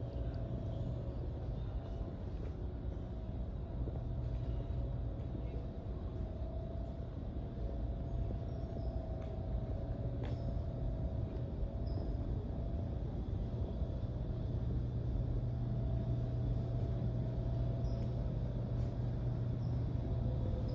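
Steady low rumble of a running vehicle, with a faint steady whine above it and a few faint ticks.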